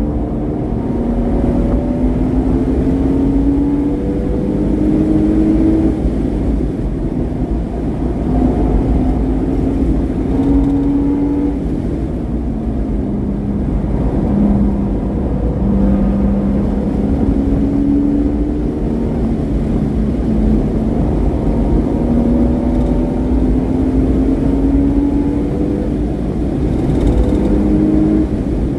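Porsche Boxster S flat-six engine with a modified exhaust, driven hard on track: its note climbs for a few seconds, drops back, and climbs again, over and over, above a steady low rumble.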